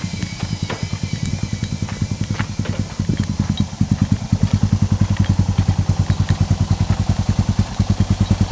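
Single-cylinder motorcycle engine running with a steady, low pulsing beat. It gets louder about three seconds in.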